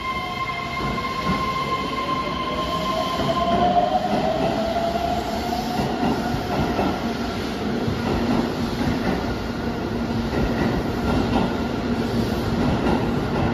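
Keihan 3000 series electric train pulling out of an underground platform. The traction motor whine rises in pitch as it accelerates, over a building rumble and clatter of wheels on rail. A steady high whine fades out about four seconds in.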